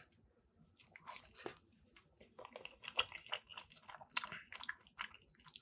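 A person chewing a mouthful of buffalo chicken mac and cheese close to the microphone: soft, irregular mouth clicks and chewing sounds that start about a second in.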